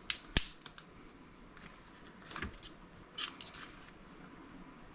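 Sharp clicks and snaps of plastic clips as a plastic cover is pried off a computer part, with one loud snap about half a second in, then a few lighter clicks.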